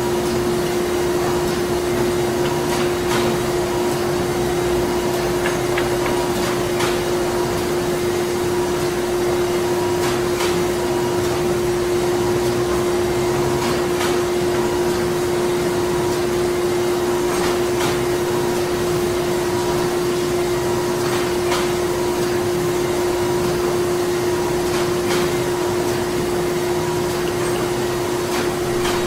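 Steady industrial hum of printing-plant machinery. A strong constant low tone runs under a faint higher tone that pulses on and off, with scattered light clicks.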